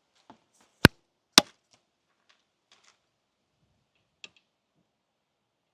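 Two sharp knocks about half a second apart, then a few light clicks and one lighter tap: hand tools striking metal during work on a brake caliper.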